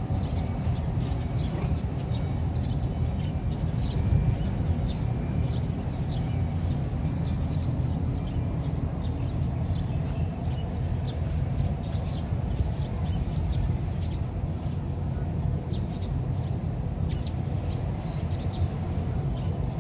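A vehicle engine running steadily at a low rumble, with many short bird chirps over it.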